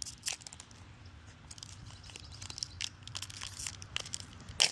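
Foil trading-card booster pack being torn open and crinkled in the hands: scattered crackles and rustles, the loudest one near the end.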